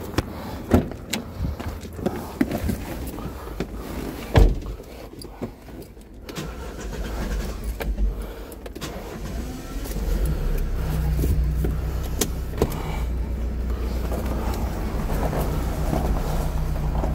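Scattered knocks and clicks, then about ten seconds in a vehicle engine begins running steadily with a low, even hum.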